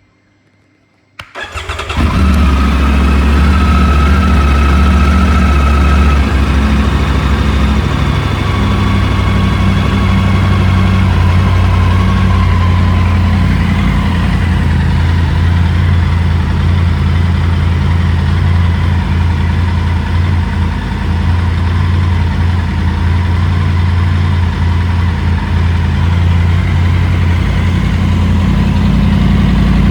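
Triumph Tiger 900 Rally Pro's three-cylinder engine, breathing through an aftermarket MIV exhaust, cranked on the starter about a second in; it catches at once and settles into a steady idle.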